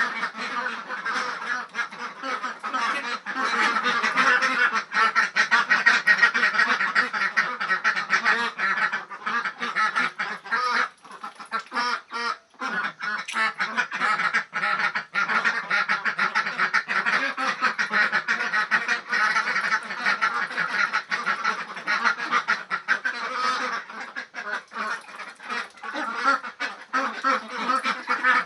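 A flock of young Ratu laying ducks quacking non-stop, many voices overlapping, with a brief lull a little before the middle.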